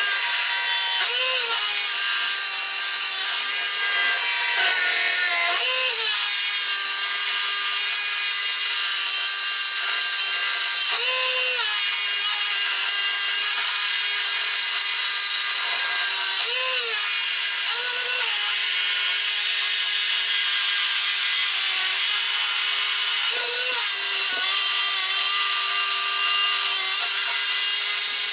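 Power drill boring into reinforced concrete, its motor running steadily under load with a dense gritty hiss. The pitch briefly rises every five seconds or so as the load eases.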